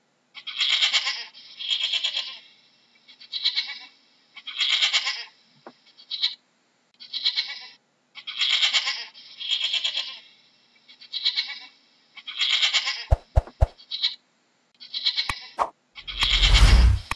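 A goat bleating over and over, about a dozen short high-pitched calls a second or so apart. Near the end come a few sharp clicks and then a loud noisy burst, the sound effect of a subscribe-button animation.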